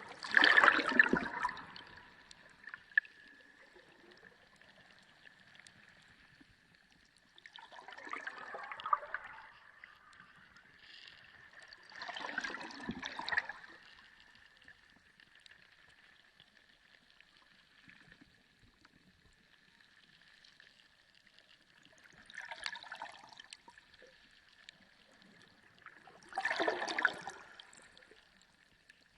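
Underwater sea ambience: five separate surges of gurgling water, each a second or two long and a few seconds apart, the first the loudest, over a faint steady high tone.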